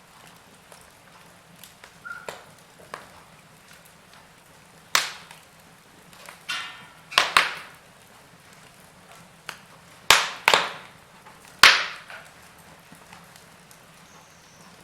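Wood fire crackling in a fireplace: irregular sharp pops and snaps from burning logs over a low steady hiss, with the loudest pops around the middle and a couple of strong ones near the end.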